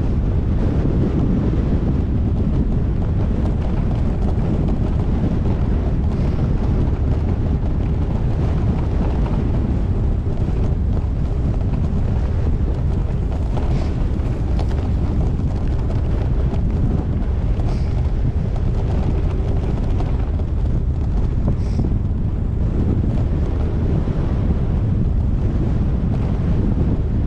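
Wind buffeting a GoPro Hero8 action camera's microphone while cycling, a steady loud low rumble.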